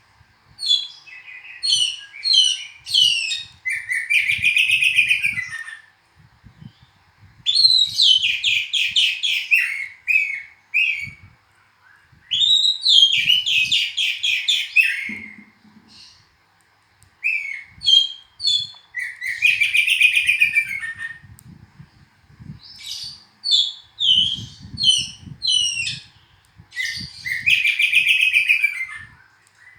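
Oriental magpie-robin (kacer) singing: rapid trilled phrases of one to two seconds, repeated every few seconds, with short chirps and whistled notes between them.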